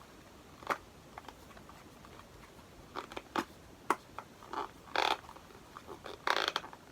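Small cardboard box being opened and handled: scattered clicks and taps, then two longer scraping rustles near the end.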